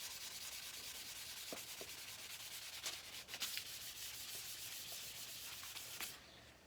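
Hand sanding of a clear-coated Norton Commando side cover with 600-grit paper, a steady faint scratchy hiss, to flatten orange peel in the clear coat. The sanding eases off about six seconds in.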